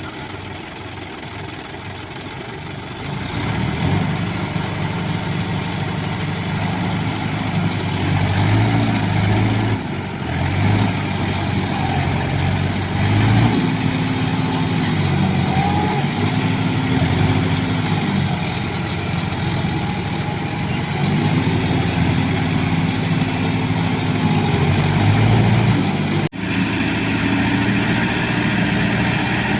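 Tractor diesel engine running. It gets louder about three seconds in, then revs up and down several times.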